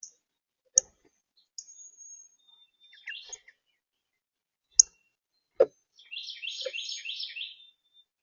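Small birds calling at a feeder: short chirps and a thin high whistle, then a rapid chattering trill near the end. Three sharp taps or clicks come in between.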